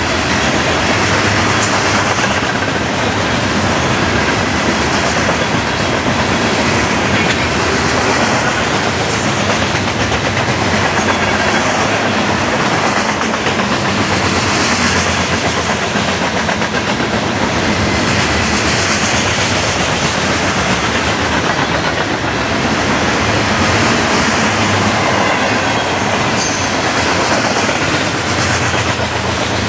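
Freight train cars rolling past close by: a steady, loud rumble and clatter of wheels on rail.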